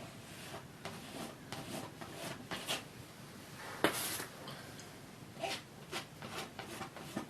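Palette knife laying thick oil paint onto canvas: a run of short scraping, sticky strokes, with one sharper tap about four seconds in.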